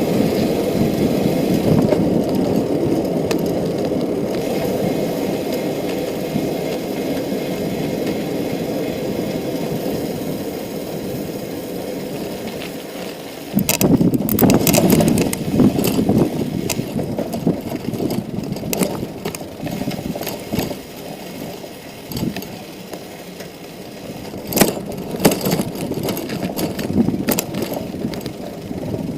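A bicycle rolling at night, heard from the bike: a steady rumble that slowly fades over the first half. From about 13 seconds in it turns into a rougher, louder rumble full of sharp clicks and rattles, a few strong knocks coming a little past the middle.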